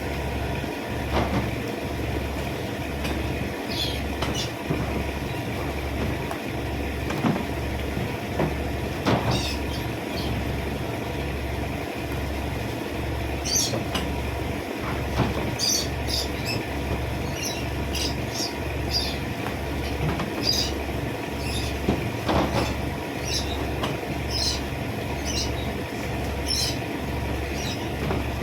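A machine runs throughout with a steady low throb, about one and a half pulses a second, under scattered knocks and clatter. Short high chirps come repeatedly in the second half.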